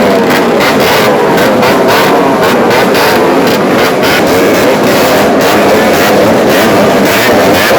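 A crowd of motorcycles with gutted, unmuffled exhausts, many of them two-strokes, revving their throttles together in a loud continuous racket of overlapping, wavering engine notes.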